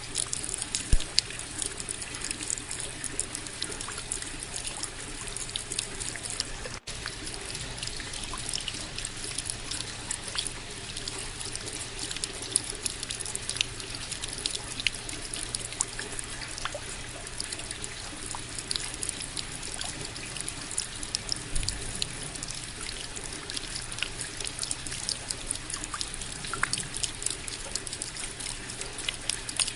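Steady rain falling: an even hiss dotted with many sharp ticks of individual drops striking close by, with a split-second dropout about seven seconds in.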